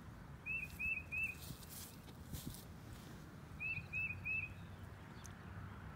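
A bird calling twice, each time a quick run of three short, identical notes, about three seconds apart, over low steady outdoor background noise.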